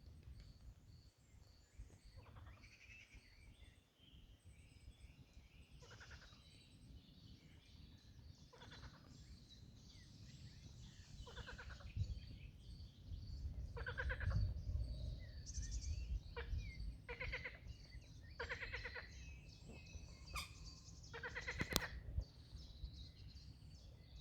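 Frogs croaking at a pond: short, rapidly pulsed croaks every few seconds, coming thicker in the second half, over a faint steady high-pitched chirping.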